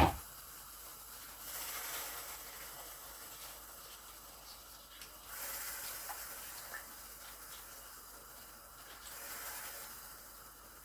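A sharp click at the very start, then a pot of water with salo and onion skins heating on the stove toward the boil: a faint watery hiss that swells and fades three times.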